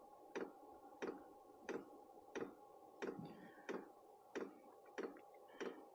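Diesel air heater's fuel pump clicking steadily as it pumps fuel, about one and a half ticks a second, over a faint steady hum.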